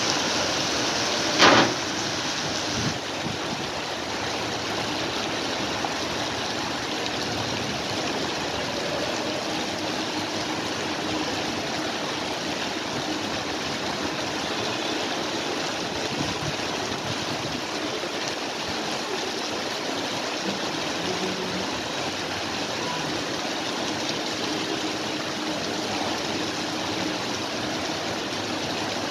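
Steady rain falling on wet pavement, a dense even hiss. About a second and a half in there is one sudden loud knock.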